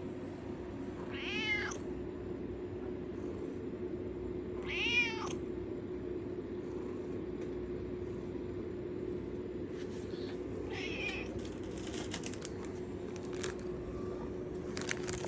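American Shorthair cat meowing to beg for treats: two clear meows a few seconds apart, then a fainter one later. Scattered light clicks near the end, over a steady low hum.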